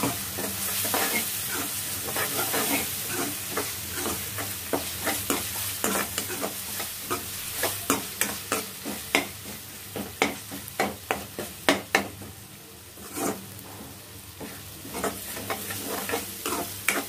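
Onions and ginger paste sizzling in hot oil in a metal pan, while a metal spatula scrapes and clicks against the pan, stirring them: the paste is being fried until its raw smell is gone. The clicks come irregularly, several a second.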